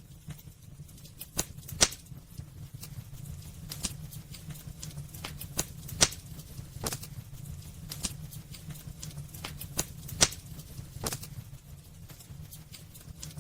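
Wood fire crackling in a fireplace: irregular sharp pops and snaps over a steady low rumble, the loudest pops about two, six and ten seconds in.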